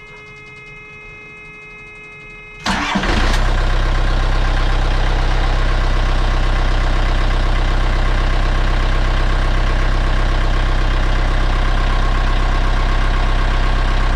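Narrowboat diesel engine started after an oil and filter change: a steady warning buzzer tone sounds for about two and a half seconds, the starter turns the engine briefly, it catches almost at once and the buzzer stops, and the engine then idles steadily and loudly.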